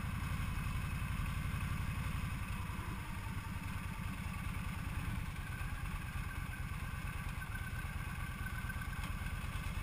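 Yamaha XVS cruiser's V-twin engine running steadily at low road speed, a fast low pulsing.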